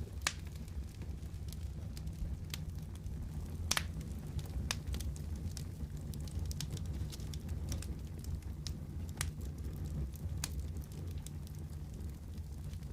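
Wood fire crackling in a fireplace: scattered, irregular sharp pops and snaps over a steady low rumble.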